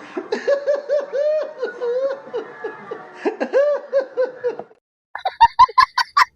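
High-pitched human laughter sound effect: a quick run of pitched 'ha-ha' pulses, about four a second, for roughly four and a half seconds. After a short break, near the end, a faster, higher-pitched giggle begins that sounds sped up.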